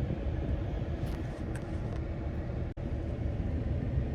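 Steady low road and tyre rumble inside the cab of a Ford F-150 Lightning electric pickup. The sound cuts out for an instant about two-thirds of the way through.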